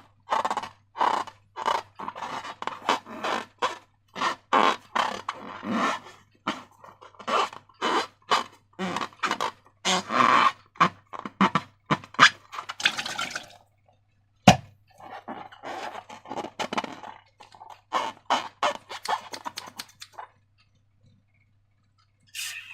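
Slime being squished and worked by hand: a long run of short squelching sounds, two or three a second, with one sharp snap about halfway through.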